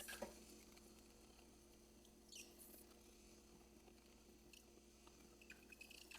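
Near silence with a faint steady hum and a few brief, faint squeaks: one at the start, one about two and a half seconds in, and several near the end.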